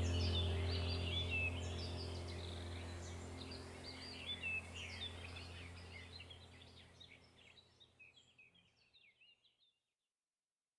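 Birds chirping over a steady low hum, the whole sound fading out to silence about nine and a half seconds in.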